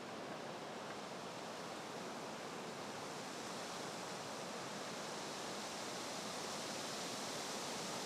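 Steady, even outdoor background hiss with no distinct events, getting slightly louder over the few seconds.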